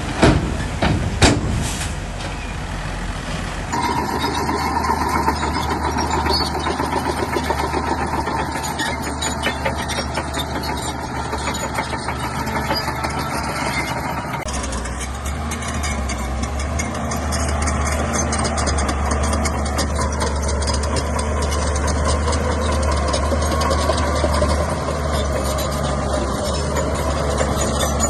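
Shantui bulldozer's diesel engine running under load, with a couple of sharp metallic clanks about a second in.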